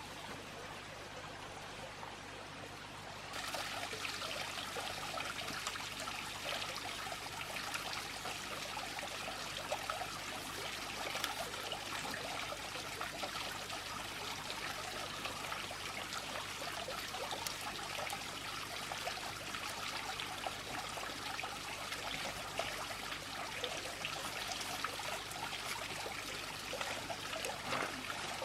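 Running water, a steady trickling rush that gets louder and brighter about three seconds in.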